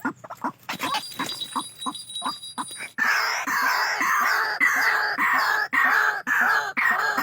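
A bird calling: quick short notes at first, then from about three seconds in a loud, harsh call repeated two to three times a second.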